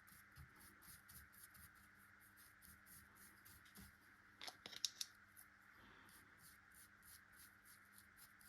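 Near silence: a faint steady hum with fast, faint, even ticking, and a short cluster of small clicks about halfway through.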